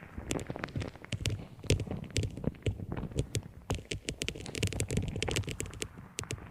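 Irregular tapping, clicking and scratching of objects handled close to the microphone, several small knocks a second.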